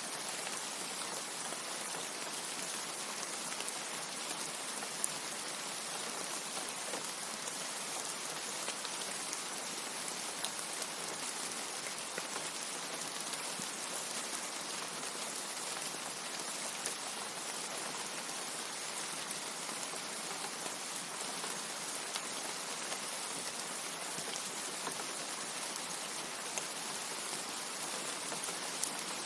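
Steady rain falling, an even hiss with a few individual drop ticks now and then.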